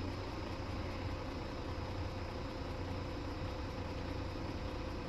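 Steady engine-like hum with a constant whine that does not change.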